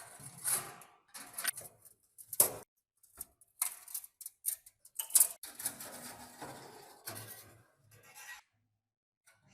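Irregular clicks, knocks and short scrapes of hand tools working on metal parts of an antique fan, with a longer rough scraping stretch after the middle.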